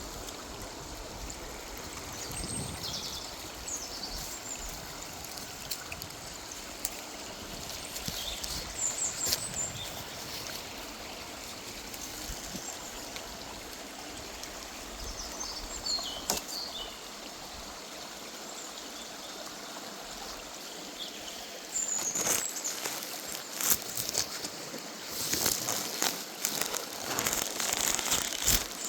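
A woodland stream running steadily, with small birds chirping now and then. In the last several seconds a run of louder crackles and knocks rises over the water.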